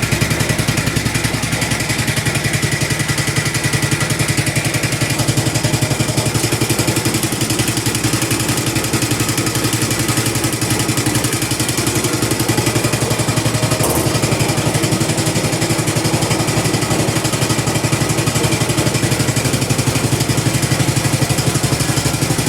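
Cub Cadet 86 garden tractor engine running steadily just after a cold start, with an even low pulsing beat.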